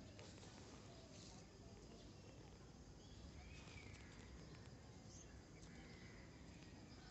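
Faint outdoor ambience with a few short, scattered bird chirps over a low steady background hum.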